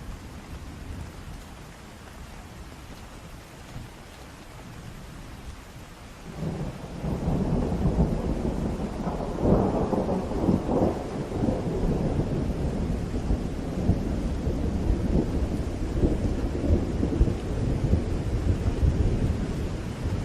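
Steady rain, joined about six seconds in by a long, loud low rumble of thunder that swells and rolls on through the rest of the stretch.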